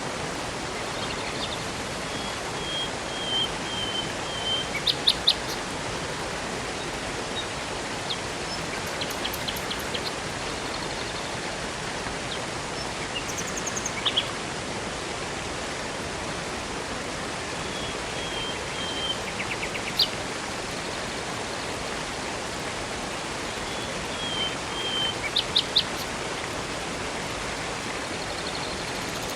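Steady rush of a river and waterfall with songbirds calling over it. A short run of falling whistled notes comes three times, and quick clusters of sharp chips come now and then.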